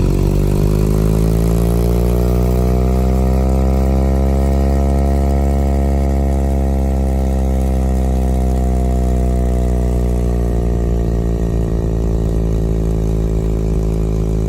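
Car's ventilation blower fan running at an abnormally high speed, a loud steady hum with many overtones. Its pitch climbs over the first couple of seconds, holds, then sags slightly near the end.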